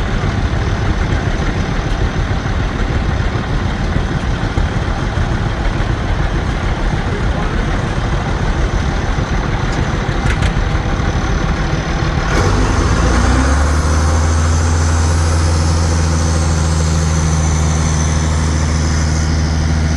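An engine running with a rough, uneven rumble, which changes about two-thirds of the way in to a steady low hum.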